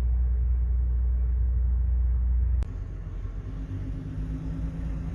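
Heavy low rumble of wind buffeting the microphone, cutting off abruptly about two and a half seconds in to a quieter steady low hum.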